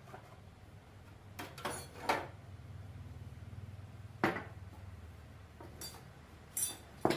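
Metal tools clinking and knocking on motorcycle parts: a handful of short, sharp clinks at irregular intervals over a low, steady hum.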